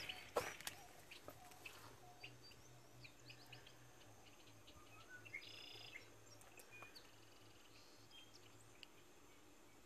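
Faint bird chirps and short calls over near silence, with a couple of light knocks near the start.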